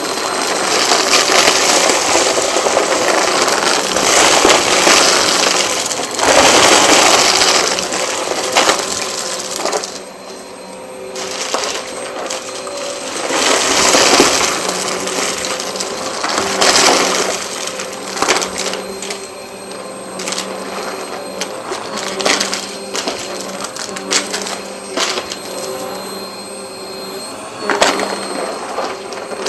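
Vacuum cleaner running, its motor humming steadily under surges of rushing air that swell and fade every few seconds. Sharp rattling clicks run through it, as of small hard bits being sucked up.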